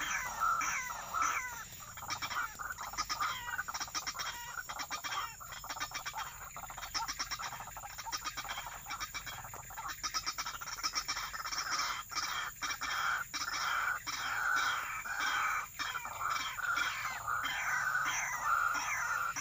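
White-breasted waterhen calling, a fast run of repeated harsh croaking notes that carries on with only brief pauses.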